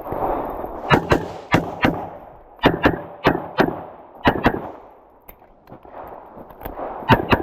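Rapid pistol fire: about a dozen shots in quick pairs and triples, with short pauses between the groups as the shooter moves between targets on a USPSA stage.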